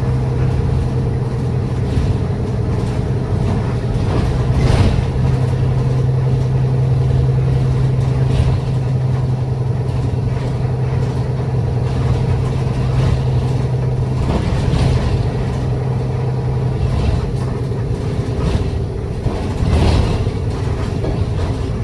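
City bus engine running under way, heard from inside the passenger cabin as a steady low drone with light rattles. The drone drops away about 18 seconds in.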